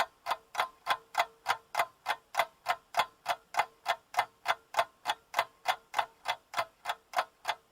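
Steady, even ticking at about three ticks a second, like a clock.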